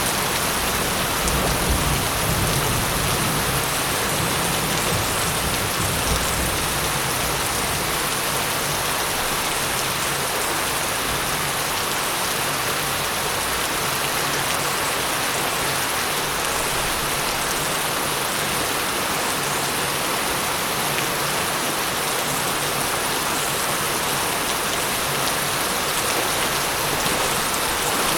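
Steady rain falling in a dense, even hiss. A low thunder rumble fades out over the first several seconds.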